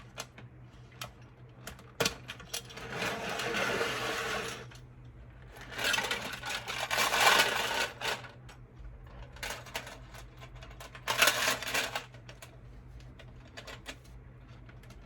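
Small metal chain rattling and clinking as it is handled, in three stretches of a second or two each, with scattered small clicks between them.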